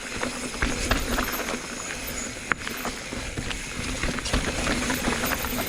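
Mountain bike on a rocky downhill trail: a steady rush of noise with scattered knocks and rattles, one sharp knock about halfway through.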